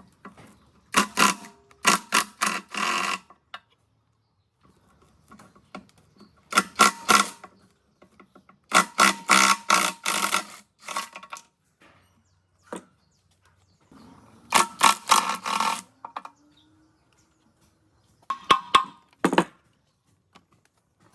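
Short bursts of rapid metal-on-metal striking, each one to two seconds long with a ringing tone, repeated about six times with pauses between.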